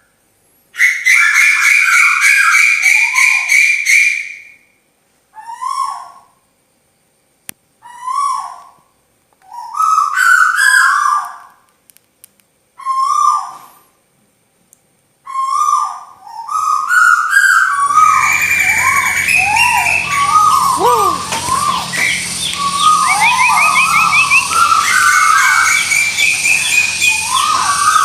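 Bird-lure recording of tuwu bird calls: phrases of short, rising-and-falling whistled notes repeated with silent gaps between them. About two-thirds of the way in, a dense, continuous chorus of many overlapping calls begins, over a low hum.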